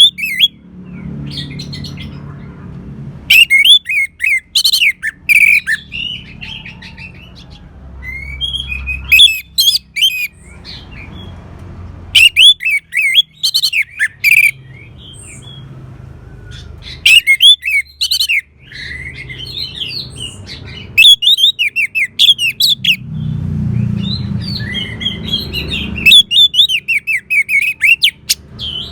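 Orange-headed thrush (anis merah) singing: about six rapid, varied song phrases a few seconds apart, over a low steady background hum.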